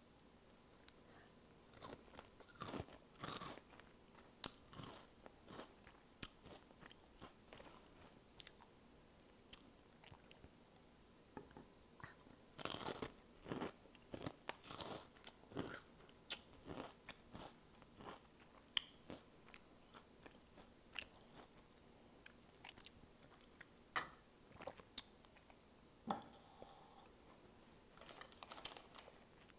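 Close-miked crunching and chewing of Flamin' Hot Cheetos: irregular crisp crunches, several every few seconds, with quieter chewing between.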